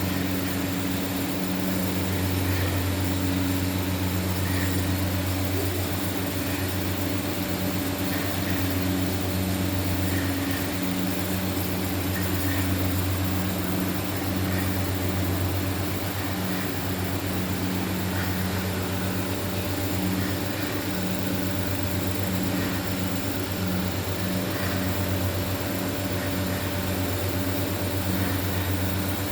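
Mawa-making plant machinery running: a steady, unbroken low mechanical hum with a rushing noise over it.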